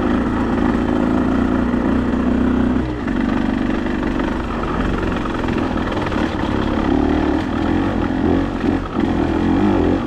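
Off-road vehicle's engine running at low trail speed, the throttle easing off about three seconds in and picking up again in the last few seconds.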